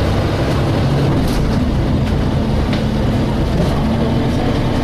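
Engine of a DAF SB220 single-deck bus running steadily under way, a low drone heard from inside the saloon. A steadier, higher hum joins it about two seconds in, and light body rattles click now and then.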